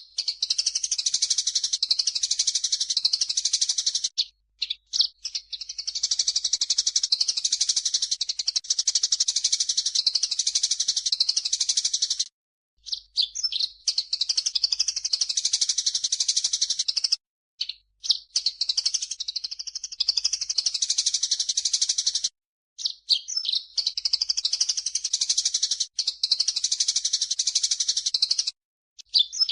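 Bird-training recording mixing grey-cheeked bulbul (cucak jenggot) song with Eurasian tree sparrow chatter. It is a dense, high twittering that runs in long bouts of about five seconds, each broken off by a brief pause.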